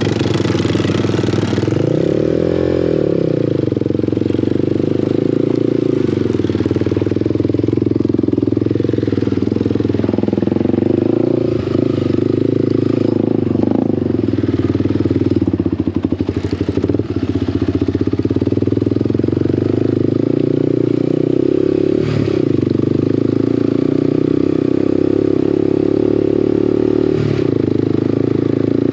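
Small off-road vehicle engine running at low speed, its pitch rising and falling with the throttle several times, with a few short knocks and clatter.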